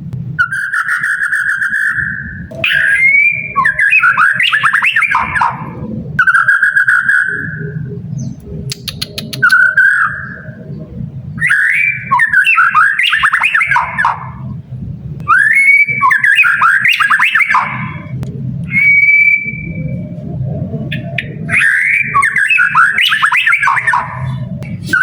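White-rumped shama (murai batu) singing loud, full song: long, steady whistled notes alternating with fast, varied warbling phrases, a new phrase every few seconds.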